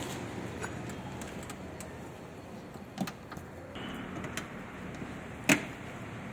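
Light clicks, a softer knock about three seconds in and one sharp, loud knock about five and a half seconds in, from tools and parts being handled during suspension work, over a steady background hum.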